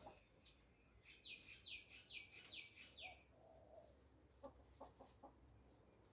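Faint backyard bird calls: a run of five quick high notes, each falling in pitch, with soft low coos around them. A few light clicks near the end.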